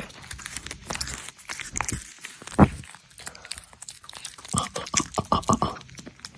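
Irregular crunching clicks and knocks, with one loud thump about two and a half seconds in and a quick run of knocks near the end.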